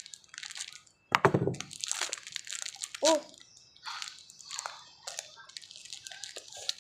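Plastic packaging of modeling clay rustling and crinkling in irregular bursts as the packet is cut and opened. There are two short vocal sounds, one about a second in and one near three seconds in.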